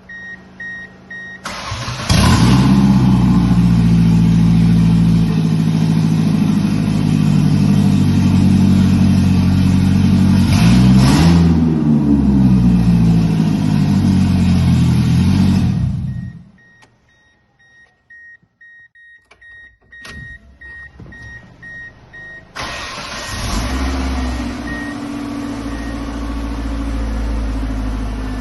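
Ford Escort engine cranked and started about two seconds in, running steadily with a brief change in revs, then shut off after about fourteen seconds. During the pause an electronic chime beeps steadily, then the engine is started again and keeps running. This is the first start after a new timing belt was fitted and lined up.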